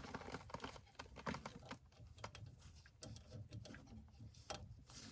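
Faint, irregular small metallic clicks and taps of an Allen key working the pressure test port screw on a furnace gas valve to crack it loose.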